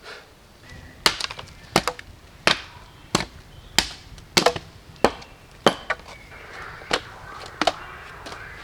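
Wood being chopped with a blade: about a dozen sharp, irregular strikes into a somewhat rotten log.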